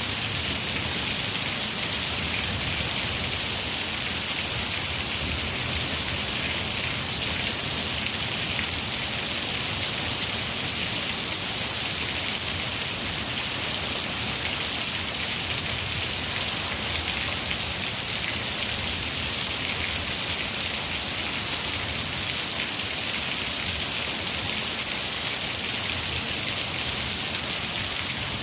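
Heavy rain pouring down steadily, an even, unbroken wash of drops that neither builds nor eases.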